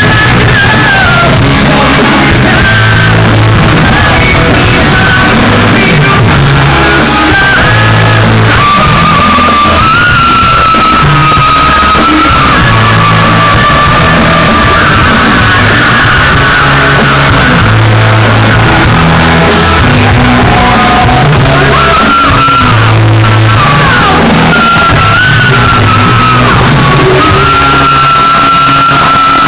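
Live hard rock band playing loud, with a high wailing lead line over electric guitars, bass and drums, echoing in a large hall. It is an audience recording, overloaded and distorted throughout.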